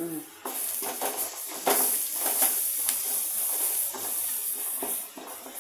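Sliced onions frying in hot oil in an aluminium kadai, sizzling steadily, with a steel ladle scraping and clinking against the pan as they are stirred. The sizzle starts about half a second in and grows louder after a second or so.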